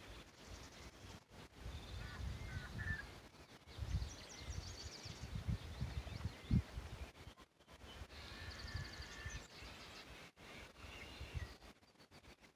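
Outdoor wind noise rumbling on the microphone in irregular gusts, with several short series of faint bird calls and chirps.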